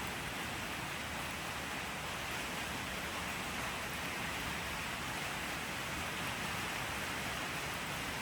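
Steady rainfall: an even, unbroken hiss of rain with no separate drops or other sounds standing out.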